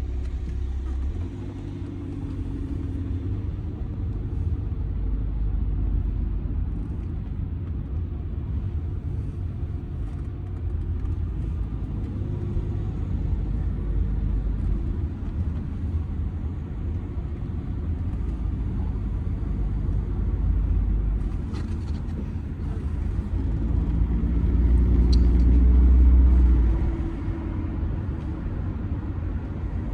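Audi A6 C6 2.0 TDI four-cylinder diesel car driving in town: a steady low engine and road rumble. The rumble builds for a few seconds about three-quarters of the way through, then falls back quickly.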